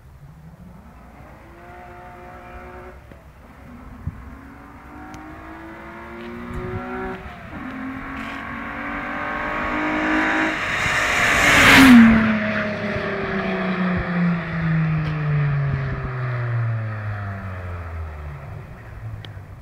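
VW Golf Mk2 with a swapped-in VR6 narrow-angle V6 accelerating hard toward the listener, its engine note climbing in steps as it goes up through the gears. It passes about twelve seconds in at its loudest, with a sharp drop in pitch, then fades as it pulls away.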